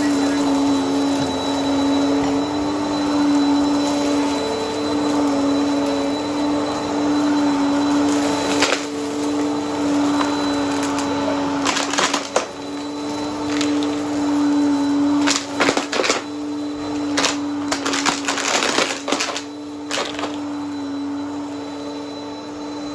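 Vacuum cleaner running steadily with a constant motor hum, with a series of brief crunching bursts in the second half as it picks up debris.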